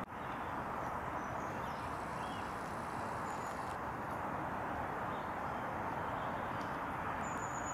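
Steady outdoor background rush with a few short, high bird chirps scattered through it, and one longer high whistle near the end.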